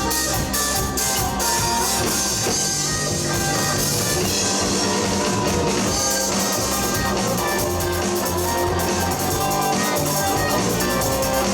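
Live rock band playing an instrumental passage: electric guitars, bass guitar and drum kit, steady and full.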